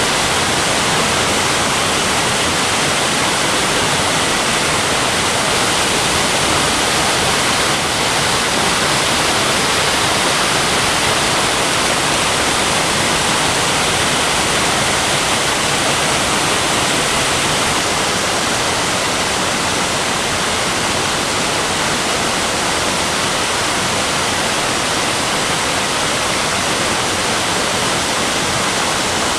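Waterfall rushing and splashing, a loud, steady hiss of falling water close to the microphone.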